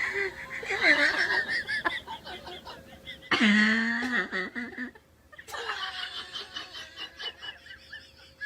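People laughing hard in several bursts, with a short lull about five seconds in.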